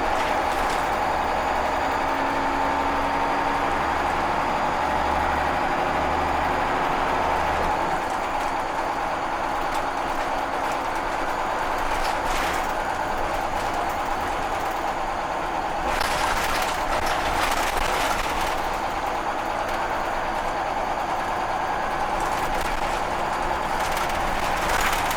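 Cabin sound of a Scania L94 single-deck bus on the move: the engine and road noise with a steady whine, a low throb that fades about a third of the way through, and body and fittings rattling, most of all for a couple of seconds around two-thirds through and again near the end.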